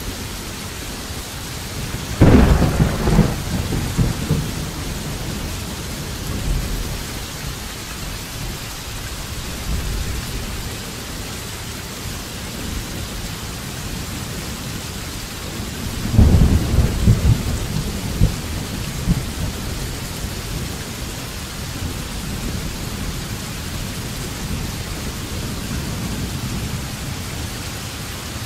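Thunderstorm: steady rain with two claps of thunder, the first about two seconds in and the second about sixteen seconds in, each rumbling on for about three seconds before fading back into the rain.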